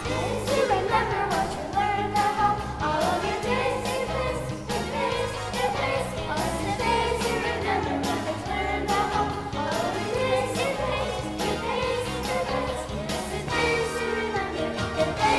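A song from a church musical: singers with instrumental accompaniment, a bass line and a steady beat.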